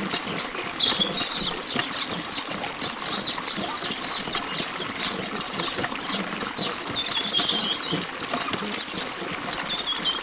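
Birds chirping in short, repeated calls over a steady hiss, with many small clicks throughout.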